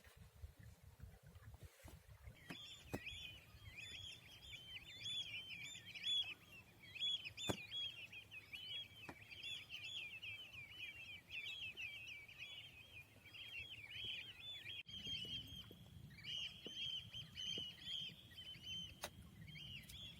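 Small birds twittering in quick, continuous runs of short chirps, starting about two seconds in, with a few faint clicks.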